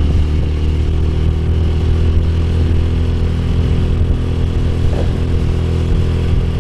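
Motorcycle engine running at a steady speed while riding, an even hum that does not change in pitch.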